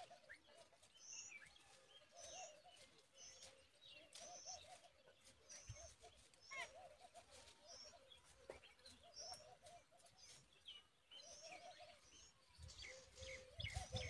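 Faint bird calls: short high chirps repeating about once a second, with quick falling whistles and low warbling notes underneath.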